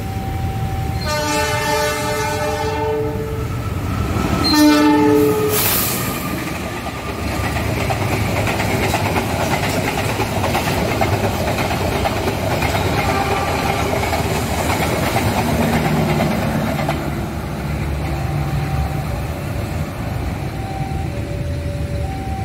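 Passenger train hauled by a CC206 diesel-electric locomotive passing close by. It opens with a two-second horn chord and a shorter second blast a couple of seconds later, then the steady rumble and clatter of the locomotive and coaches going past, easing off near the end.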